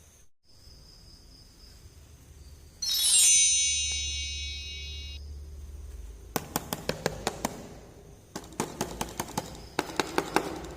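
A bright chime rings out about three seconds in and cuts off abruptly two seconds later. It is followed by three bursts of rapid, light clicking from small plastic toy pieces being handled.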